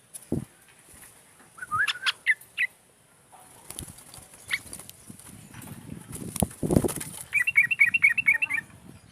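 A trucukan (yellow-vented bulbul) singing: a few short chirpy notes, then a quick run of about ten notes near the end. Low thuds and rustles come in between, the loudest just before that run.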